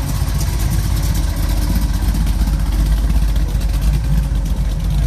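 Car engine running close by, a steady deep low sound.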